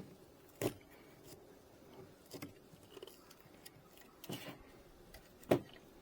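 A few scattered light knocks and clicks from handling wooden hive frames and tools, the loudest near the end.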